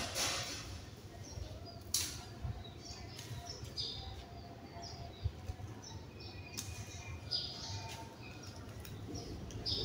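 Small birds chirping in short calls, with two sharp knocks, one at the start and one about two seconds in, over a steady low background rumble.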